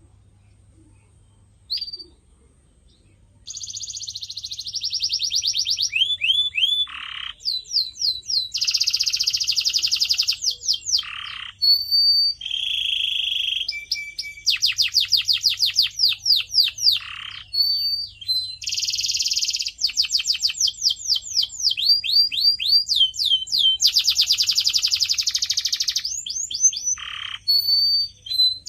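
Domestic canary singing: one short chirp, then from about three seconds in a continuous song of fast trills, rows of repeated falling whistled notes and buzzy rattling rolls, one phrase running straight into the next.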